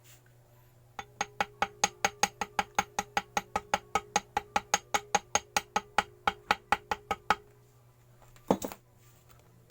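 A small hammer tapping rapidly and evenly on metal, about five light strikes a second for some six seconds, with a faint ring; a single heavier knock follows near the end. This is the usual way a homemade gasket is cut: tapping the gasket paper against the edge of the engine casing.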